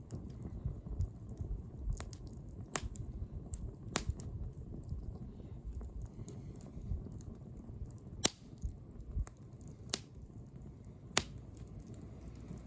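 Bonfire burning: burning wood crackling, with a sharp pop every second or two over a low steady rumble of the flames.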